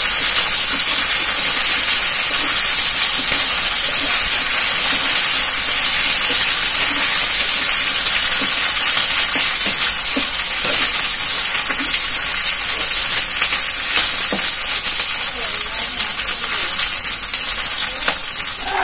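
Sliced onions with ginger-garlic paste sizzling in hot oil in a metal pan, a steady hiss, stirred with a metal spatula that clicks and scrapes against the pan a few times past the middle.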